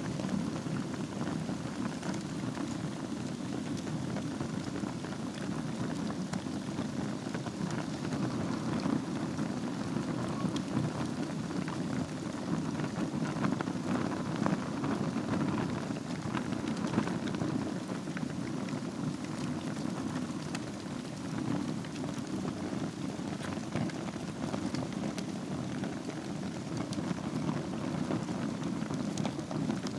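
Wood fire burning in a fireplace: a steady low rush of flames with many small crackles and pops throughout.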